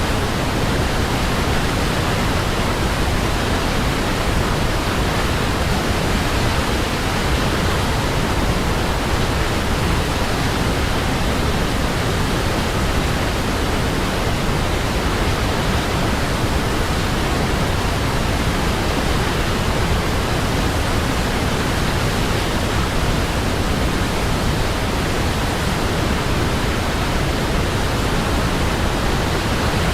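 Waterfall: a steady, even rush of falling water with no changes in level.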